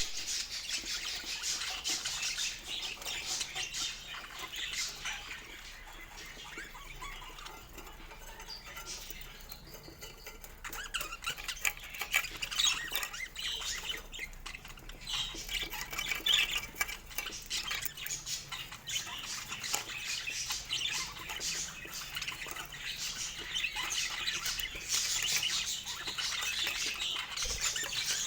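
Several budgerigars chattering and squawking without a break, a dense run of short high chirps and warbles.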